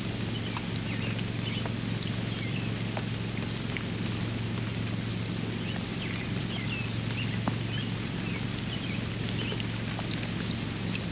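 Steady rain with scattered sharp drips over a steady low hum, while small birds chirp in short high calls through the first part.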